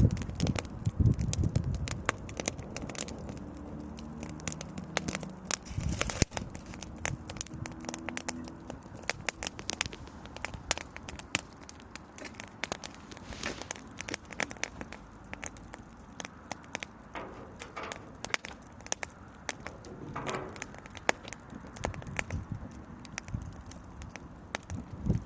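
Small wood campfire crackling, with irregular sharp pops and snaps all the way through.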